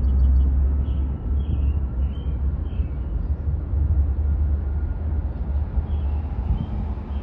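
Low rumble of a jet airliner taking off, slowly fading as it climbs away, with wind buffeting the microphone.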